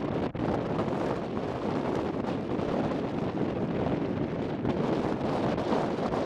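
Strong wind buffeting the microphone in steady gusts.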